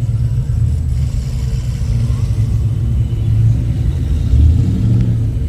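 A car engine running with a deep, steady low rumble that swells slightly a few times.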